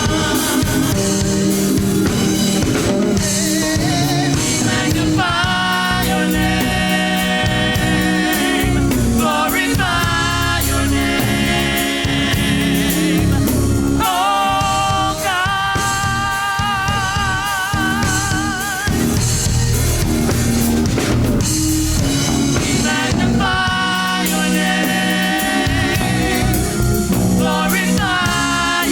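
Gospel worship song: a singer holding long notes with a wide vibrato over a band with drums and bass.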